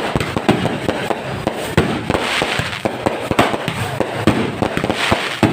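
Fireworks going off: a rapid, irregular string of sharp bangs and pops over a steady crackling hiss.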